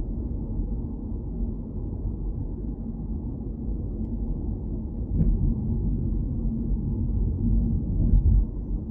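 Low, steady rumble of a car driving: road and engine noise, with louder swells about five seconds in and again just past eight seconds.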